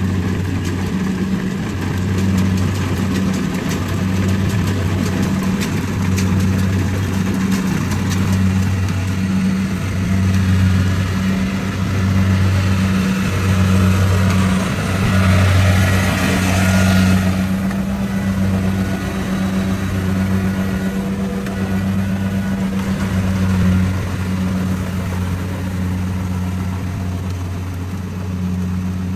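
A rice combine harvester's engine running steadily with a throbbing hum. About halfway through, a louder rushing noise builds over it and then cuts off suddenly.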